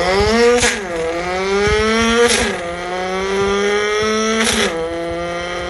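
Car engine accelerating hard through the gears: the revs climb steadily and drop sharply at three upshifts, under a second in, a little past two seconds, and near the end.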